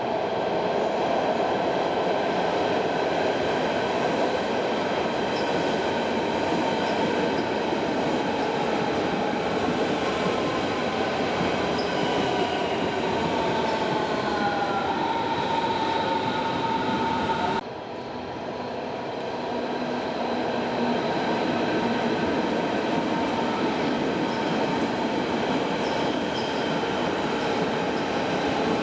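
Berlin S-Bahn electric train running at the station, a steady rumble with a motor whine that glides down in pitch around the middle. The sound drops off suddenly a little past halfway and then builds up again.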